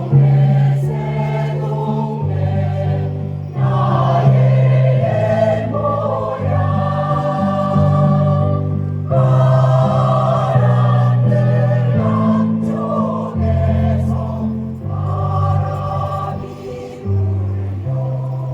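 Choir singing a slow piece with accompaniment, the voices in sustained chords over a low bass line that moves to a new note every second or two.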